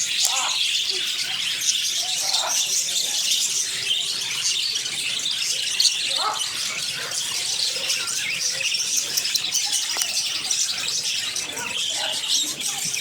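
Flock of small aviary birds chattering and chirping nonstop in a dense, high twitter, excited by the feed sticks held out to them.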